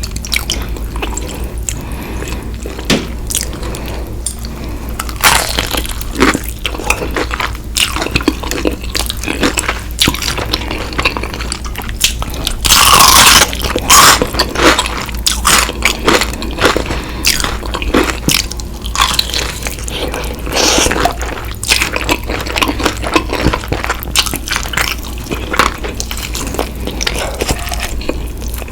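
Close-miked eating sounds: chewing and crunching of fried chicken, with wet, squishy mouth sounds and many short clicks over a low steady hum. A louder, longer crunch comes about halfway through.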